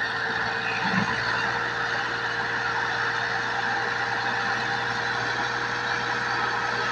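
Tractor engine running steadily with a constant hum, with a brief low knock about a second in.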